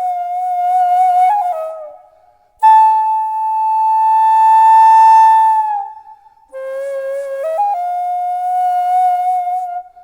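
Daegeum, the Korean bamboo transverse flute, playing solo: long held notes with small bends and slides between them, in three phrases split by short breath pauses. The loudest is a long high note in the middle.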